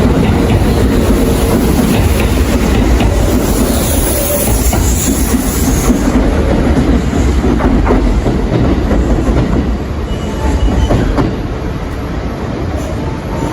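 Kintetsu electric train moving along the platform, its wheels clattering over the rail joints with a brief high wheel squeal; the sound eases off near the end.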